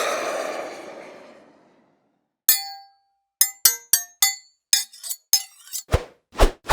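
A rushing, aircraft-like noise fades away, then a run of short glassy clinks, about eight in all, and near the end a few dull knocks.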